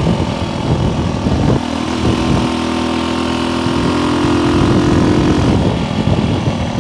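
Small vintage motorcycle engine pulling hard at high revs while riding at speed, heavily mixed with wind rush over the microphone. The engine note settles into a steady pitch for a few seconds in the middle.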